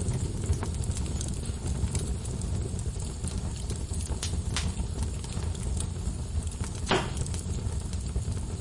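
Wood logs burning in a fireplace, crackling with scattered sharp pops over a steady low rumble, with one louder pop about seven seconds in.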